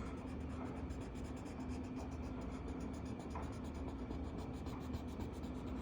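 Coloring pencil scratching faintly and steadily on paper as a page is shaded in.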